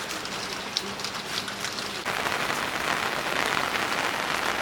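Steady rain falling, with scattered sharp drop ticks; the rain grows louder about two seconds in.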